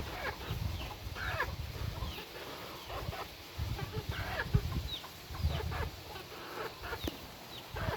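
Game chickens calling: a scattered string of short, high calls that fall in pitch, over a low rumbling in the background.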